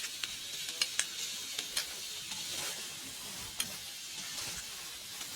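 Wood fire in a compact fire stand crackling: a few sharp pops over a steady sizzling hiss.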